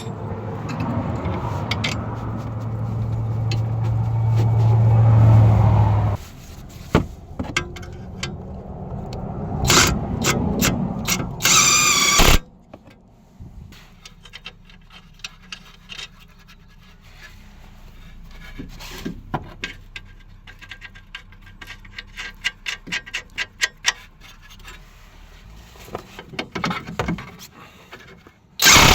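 Power wrench running for about six seconds, getting louder, then cutting off, with a second short rattling burst near the middle. Scattered metallic clicks and taps of hand tools follow.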